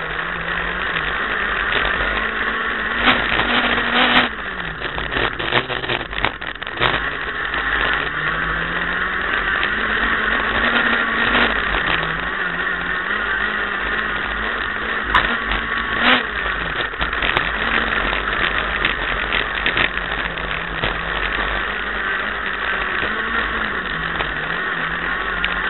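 Renault Clio Williams's four-cylinder engine heard from inside the cabin under racing load, its revs rising and falling again and again through gear changes, with scattered sharp knocks and rattles over the dirt course.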